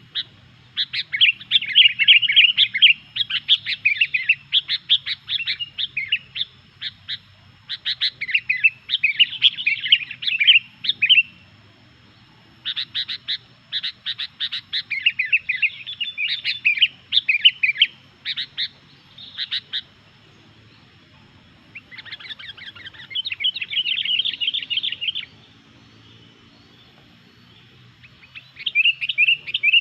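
Sooty-headed bulbul (kutilang) singing loudly in rapid runs of short chirping notes, phrases of a few seconds broken by short pauses.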